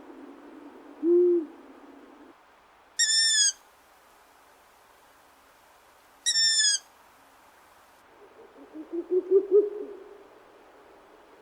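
Animal calls: one short low hoot about a second in, then two brief high-pitched whistle-like calls a few seconds apart, and near the end a rapid series of low pulses that grows louder before stopping.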